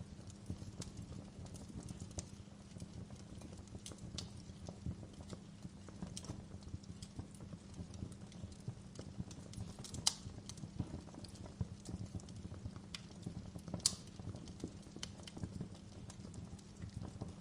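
Wood fire crackling in a fireplace: a low steady rumble of flame with scattered sharp crackles and pops, two of them louder, about ten and fourteen seconds in.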